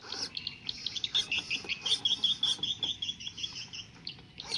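Small birds chirping, with a quick run of repeated high chirps about a second in.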